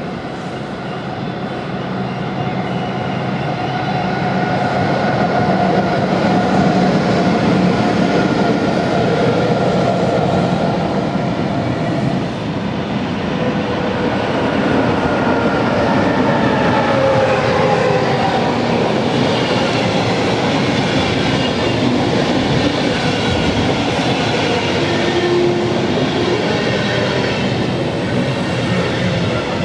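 Electric-hauled passenger trains passing through a station. First a DB red InterCity electric locomotive approaches, growing louder with a steady whining tone over the rolling noise; after a cut, a green Flixtrain locomotive and its coaches roll past close by with continuous wheel-on-rail noise and high thin tones.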